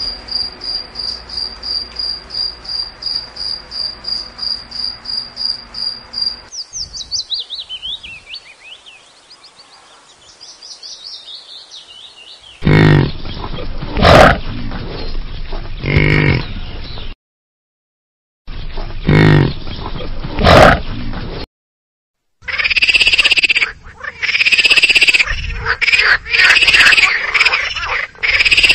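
A run of different animal calls: a high pulsing trill, about three pulses a second, for the first six seconds; then a string of short downward-sliding chirps; then loud low calls in bursts from about 13 to 21 seconds; then a run of repeated harsh calls near the end.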